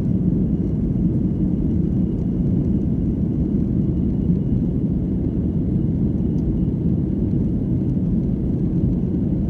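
Steady low rumble of a passenger airliner's engines and airflow heard from inside the cabin, with a faint thin high whine over it.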